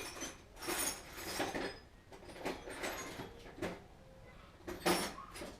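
Metal hand tools clattering and clinking while being rummaged through: a string of short, irregular rattles and knocks.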